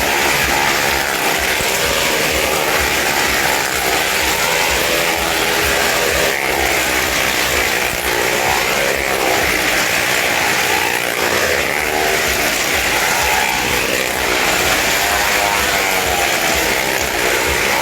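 Motorcycle engine running hard while circling inside a well-of-death stunt pit, its pitch rising and falling over and over as it revs and sweeps past.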